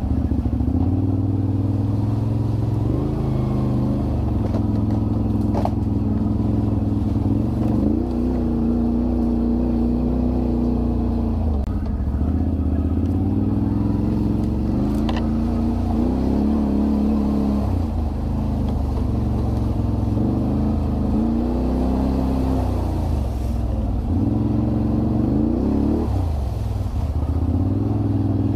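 Can-Am Renegade 1000 ATV's V-twin engine running while riding, its pitch rising and falling several times as the throttle is worked. Two brief sharp clicks stand out, a few seconds in and about halfway through.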